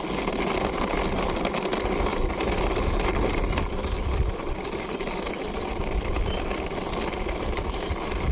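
A small toy car's plastic wheels rolling and rattling along a wall as it is pushed by hand, a steady rough noise full of fine clicks. Midway a bird gives a quick run of about eight short, falling chirps.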